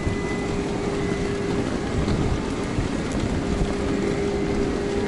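Passenger train running, heard from inside the carriage: a steady rumble with a faint, even hum through it.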